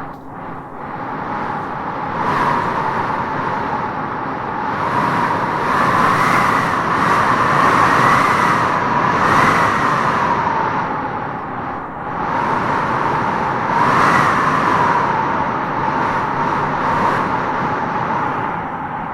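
Howling wind gusting through trees: a steady rush with a wavering howl that rises and falls in pitch, swelling in gusts around the middle and again near the end.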